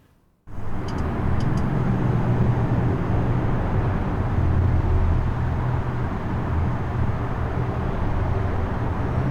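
Steady vehicle engine and road rumble, like a car's cabin on the move, cutting in abruptly about half a second in, with a few faint ticks a second or so later.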